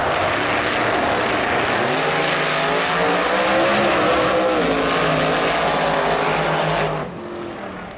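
Drag racing car's engine running hard at full throttle, its pitch climbing through the run. The sound cuts off abruptly about seven seconds in, leaving quieter background noise.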